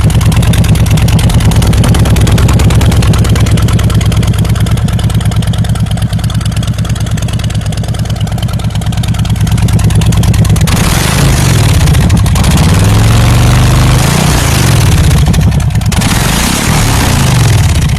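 Harley-Davidson motorcycle V-twin engine idling with a steady, even pulse. From about ten seconds in it is revved repeatedly, the pitch rising and falling with each blip of the throttle.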